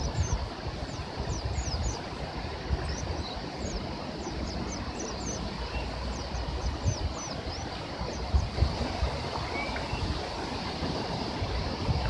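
Small birds chirping in quick, thin, high downward notes, several a second at first and sparser later. Behind them is a steady rush of river water and gusts of wind rumbling on the microphone.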